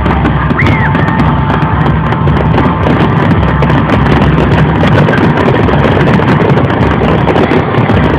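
Fireworks crackling and popping loudly, with dense rapid pops and no break, plus a short whistle about half a second in.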